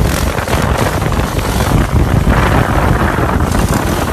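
Heavy wind buffeting the microphone of a moving motorcycle rider's camera, over a low engine rumble.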